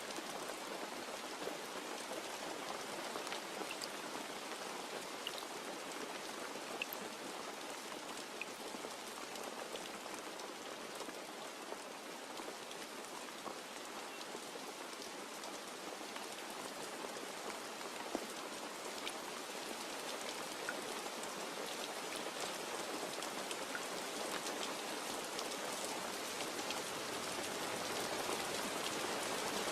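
Steady rain falling on a surface, an even hiss with scattered individual drops ticking, growing a little louder near the end.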